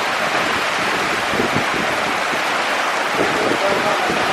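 Very heavy tropical rainforest downpour: a steady, dense rush of rain.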